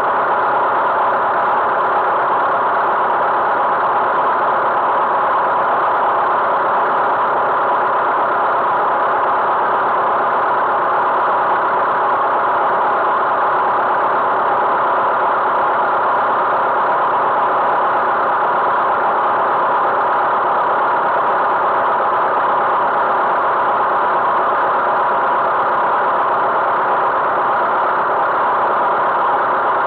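Tractor engine running at a steady, even speed, without change for the whole stretch.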